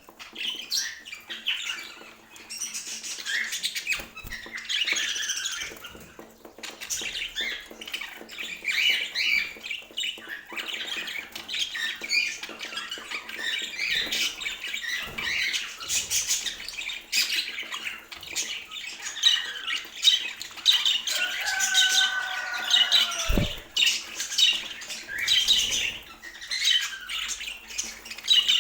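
Budgerigars chattering and squawking continuously, a dense mix of warbles, chirps and harsh calls with many small clicks. About 21 seconds in a lower, steadier tone is held for a couple of seconds and ends in a sudden steep drop in pitch.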